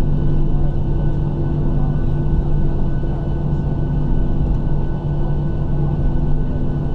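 Cabin noise inside a Boeing 737-700 on the ground after landing: a steady low rumble with its CFM56 engines and air systems humming at a few constant pitches.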